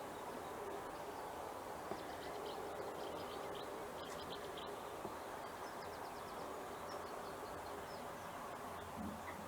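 Faint songbirds singing in short bursts of rapid high repeated notes, three times, over a steady outdoor background hiss.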